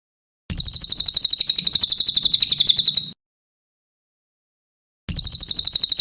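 Cililin songbird giving fast, evenly repeated high chirps, about a dozen notes a second, in two bursts of roughly two and a half seconds separated by a two-second pause.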